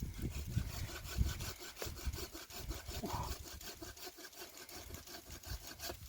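Hand saw cutting through firewood in a quick, even rhythm of back-and-forth strokes, louder at the start and easing off.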